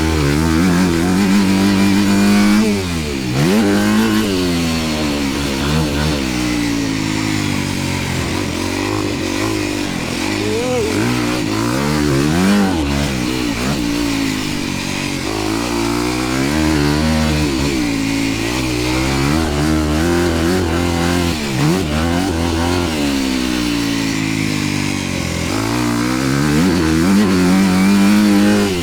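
Dirt bike engine ridden hard around a motocross track, the revs climbing and dropping again every second or two as the throttle is worked through gears, jumps and turns.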